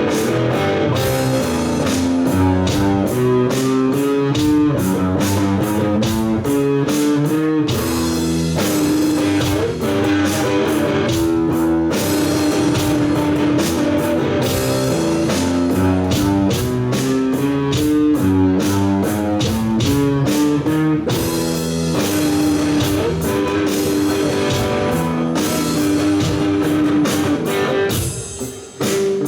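Live rock band playing an instrumental passage: an electric guitar line stepping through notes over a drum kit, with a brief drop in level just before the end.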